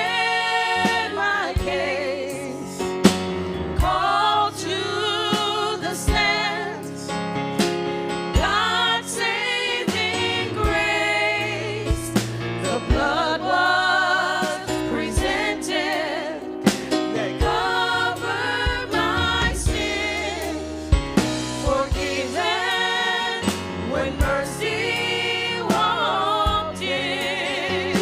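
Gospel song: a singer with strong vibrato over instrumental backing with regular drum hits.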